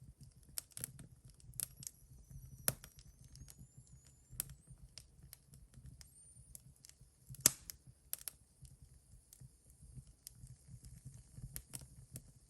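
Wood fire burning in a fireplace stove, crackling with irregular snaps and pops over a low rumble, the sharpest pops about three and seven and a half seconds in. A faint thin whistle rises in pitch from about two to four seconds in.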